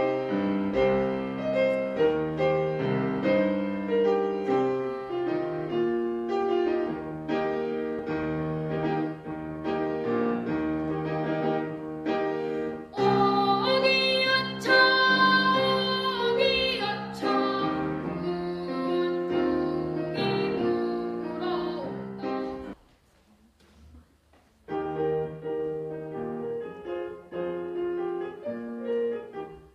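Piano-led instrumental accompaniment for a children's song, with a brighter, fuller passage about halfway through and a break of about two seconds near the end before the music starts again.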